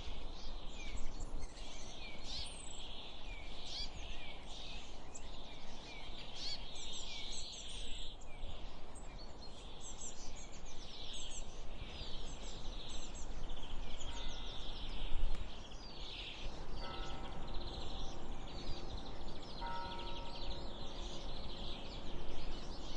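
Many small birds chirping and singing in quick repeated chirps, over a steady low rumble of highway traffic.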